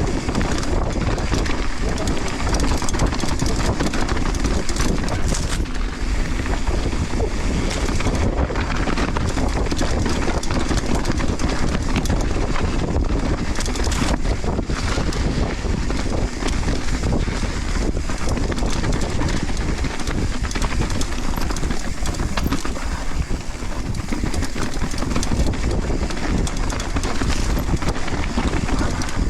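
Downhill mountain bike descent heard from a GoPro: steady wind buffeting the microphone over tyres running on loose volcanic dirt, with occasional knocks of the bike over bumps.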